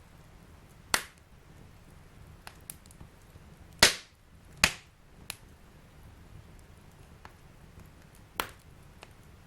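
Fire burning in a fireplace, crackling with sharp pops: a loud one about a second in, two close together near the middle, and one near the end, with smaller ticks in between over a faint low rumble of the flames.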